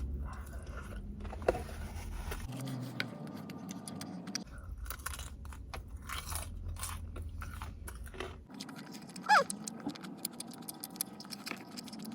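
Close-up biting and chewing of crispy fried chicken: crunching of the coating with many small crackles, and chewing. About nine seconds in there is one brief, louder sound falling in pitch.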